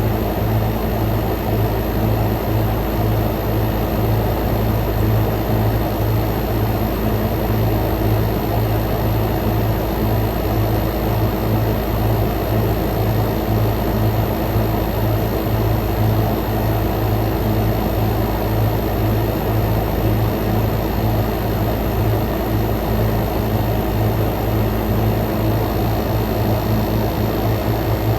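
Frigidaire Gallery 10,000 BTU dual inverter air conditioner running at or near full power: the rush of its fans over a steady low compressor hum, with a fainter higher tone.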